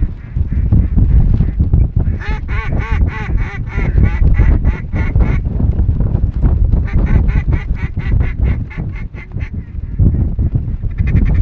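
Loud, rapid runs of duck quacks, about five a second, in two series, over a constant low wind rumble on the microphone.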